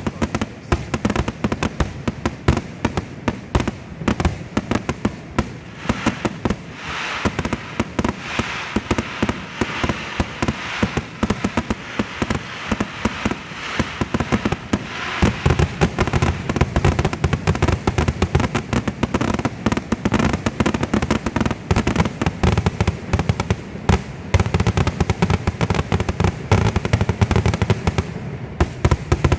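Fireworks going off in a rapid, unbroken string of bangs and crackles. It grows heavier and deeper-toned from about halfway through.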